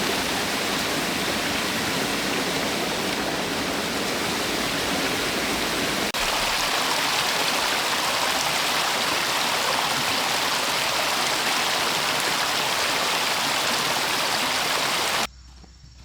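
Rushing water, a loud steady noise with a brief break about six seconds in, then cutting off suddenly near the end.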